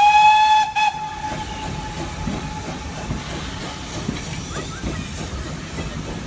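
Steam locomotive whistle: one short, loud blast that cuts off under a second in. Then the train's steady running noise with a hiss of steam.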